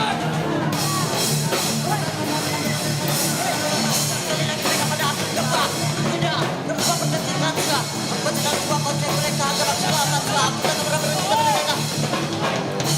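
A hardcore band playing live: distorted guitars, bass and drum kit with shouted vocals, steady and loud throughout.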